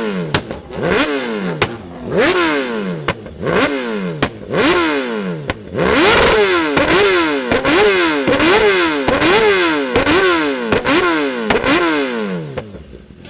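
Superbike engine being revved in repeated throttle blips, each a quick rise and a falling pitch as the revs drop. The blips come about once a second at first, then faster, roughly three every two seconds, from about halfway through, and die away near the end.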